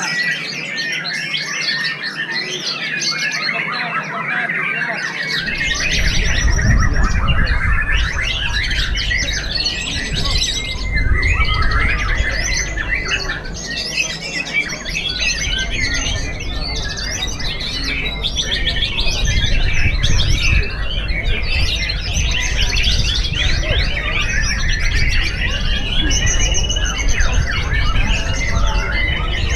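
White-rumped shama singing a fast, varied song of rapid trills, whistles and chatter, non-stop, as in a contest performance. A low rumble joins about five seconds in.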